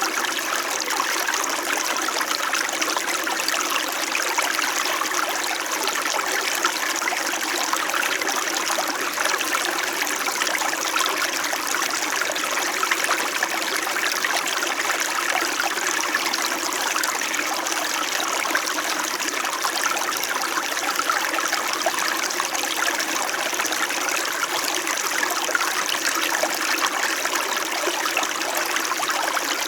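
A small winter mountain stream running steadily, its water trickling and babbling without let-up.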